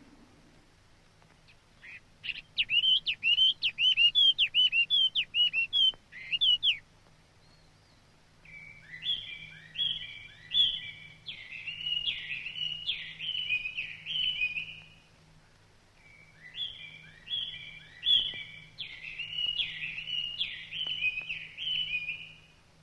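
Bird singing in three bouts: first a run of quick, sweeping chirps, then twice a longer phrase of repeated falling notes.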